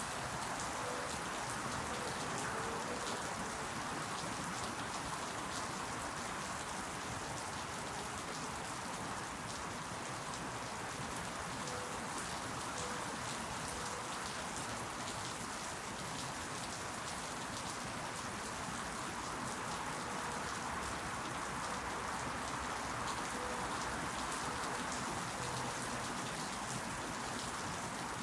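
Steady rain falling, with many small individual drop ticks over an even hiss that holds level throughout.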